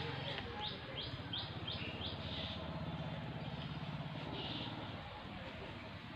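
A bird calling a quick series of short, high, falling notes, about three a second, for the first two seconds, then one more brief note later, over a steady low hum.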